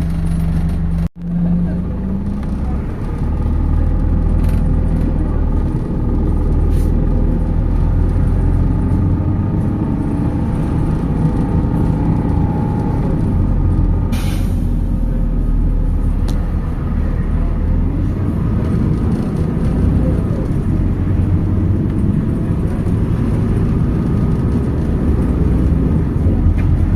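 MAZ 206.067 city bus under way, heard on board: a steady rumble of engine and road noise. About halfway through comes a short hiss of air from the bus's pneumatic system.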